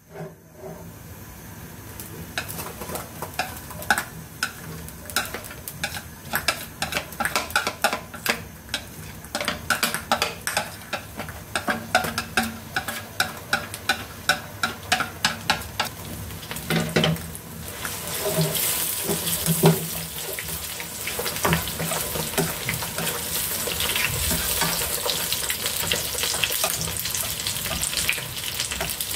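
Pieces of pig lung frying in hot oil in a nonstick pan: the oil crackles and pops, then settles into a steady, louder sizzle past the middle.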